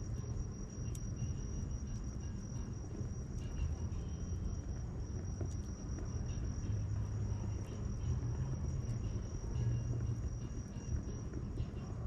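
Wood fire crackling with scattered sharp pops, over a cricket's steady high trill that stops near the end, and a low rumble underneath.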